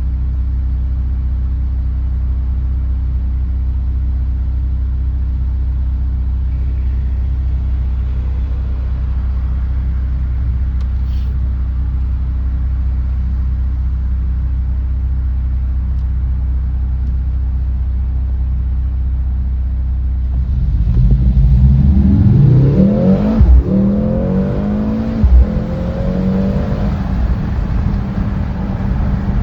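Mercedes-AMG GLC 63 S E Performance's turbocharged four-cylinder engine idling steadily through the exhaust, then revved several times from about two-thirds of the way in, the pitch rising and falling, with two sharp cracks during the revving.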